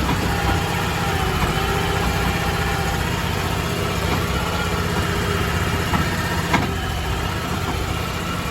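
Crawfish boat's engine running steadily as the boat moves along, with one sharp knock about six and a half seconds in.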